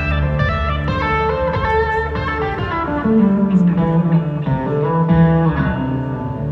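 Live band music, with an electric guitar playing a melodic lead line over sustained bass notes.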